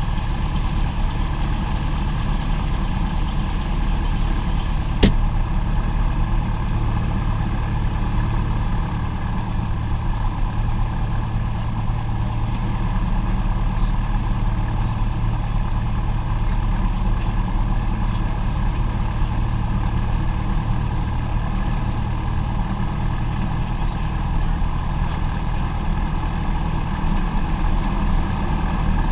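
Aircraft engine droning steadily, with a single sharp click about five seconds in.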